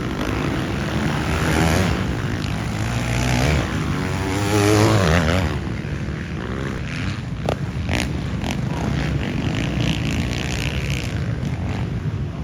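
Motocross bikes racing, their engines revving up and down, loudest in the first half, with a few sharp clicks a little past the middle.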